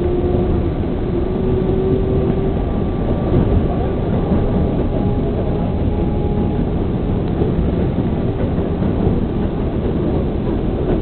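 New York City subway train running between stations, heard from inside the car: a steady, loud rumble of wheels on the track, with a faint whine in the first few seconds.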